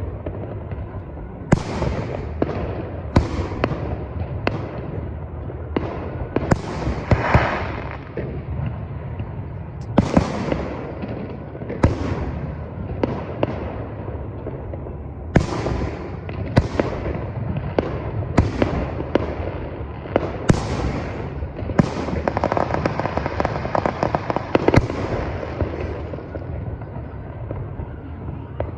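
Fireworks display: a steady run of loud bangs, more than a dozen, each trailing off, over a continuous low rumble, with a stretch of dense crackling about three-quarters of the way through.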